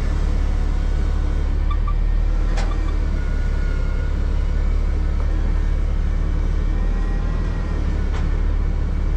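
Semi truck's diesel engine idling with a steady low rumble. A light click comes about two and a half seconds in and another near the end.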